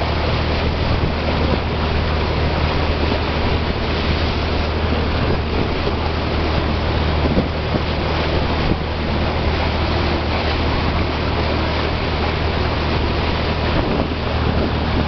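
Steady low drone of a passenger boat's engine under way, with the rush of wind and water across the microphone.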